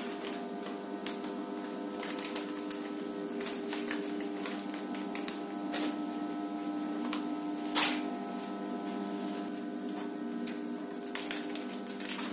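FR-900 continuous band bag sealer running: a steady motor hum with scattered light clicks and ticks, and one louder click about eight seconds in.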